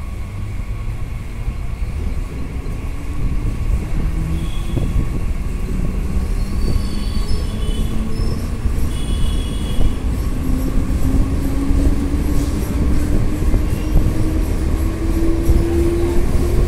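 Mumbai suburban electric local train running, heard from the open doorway of a coach: a steady low rumble of wheels on track under a motor whine that rises slowly in pitch as the train gathers speed. A few short high wheel squeals come in the middle.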